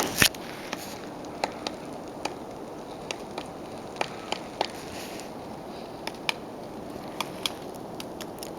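A woodpecker pecking at wood while feeding: irregular single sharp taps, some in quick pairs, with the loudest one right at the start, over steady background noise.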